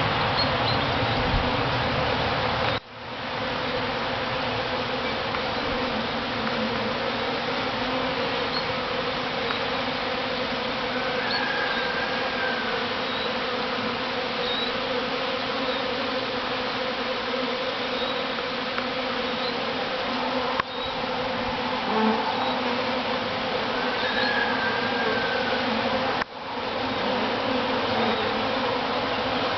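Steady, dense humming of a large honey bee swarm at close range, with a level drone and brief sudden drops about three seconds in and twice near the end.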